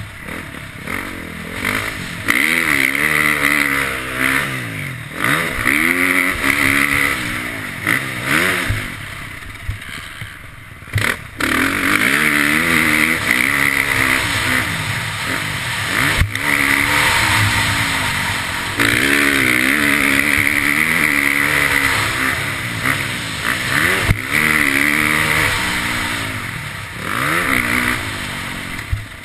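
KTM motocross bike's engine being ridden hard, its pitch climbing under throttle and dropping back again and again, with a quieter lull about a third of the way through.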